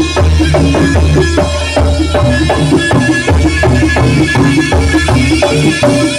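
Jaranan (kuda lumping) ensemble music: drums and percussion strike a quick, even beat over sustained pitched tones and a heavy bass.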